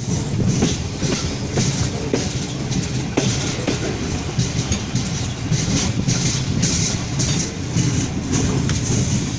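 Passenger coach of a Pakistan Railways express train running slowly, about 20 km/h, heard from its open doorway: a steady rumble of wheels on rail with irregular sharp clicks as the wheels pass over rail joints.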